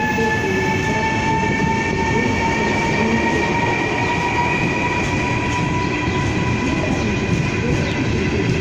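EKR1 high-speed electric train pulling away, its traction drive whining in several steady tones that rise slowly in pitch as it gathers speed, over a steady rumble of wheels on track.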